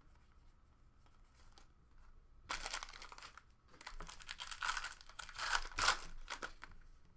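A trading-card pack wrapper being torn open and crinkled, in two spells of crackling that start about two and a half seconds in and stop shortly before the end.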